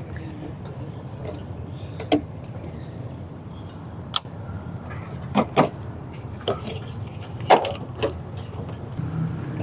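Plastic windshield cowl panel being pried off a car, its clips popping and knocking in a handful of sharp clicks, two of them in quick succession about halfway through, over a steady low hum.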